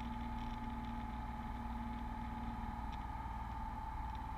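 Beechcraft Bonanza V35's piston engine and propeller droning steadily in the cabin during the landing pattern, with a steady tone above the drone.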